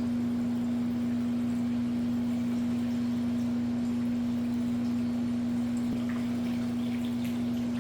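A steady low hum on one unchanging tone, with a few faint light ticks near the end.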